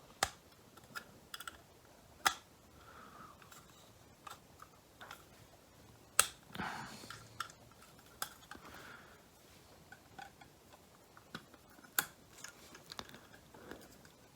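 Plastic clips of a Mercedes W204 headlight switch housing being pried and unsnapped by hand: scattered sharp clicks and snaps with handling noise between them, the loudest about two, six and twelve seconds in.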